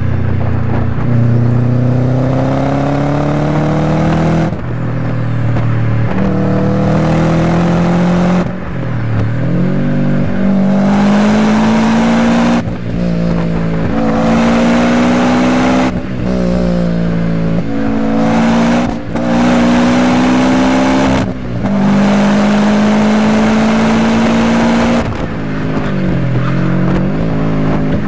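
Car engine heard from inside the cabin, revving hard through the gears: the note climbs in pitch, breaks off at each gear change, and in several places drops and climbs again as the driver lifts and shifts down.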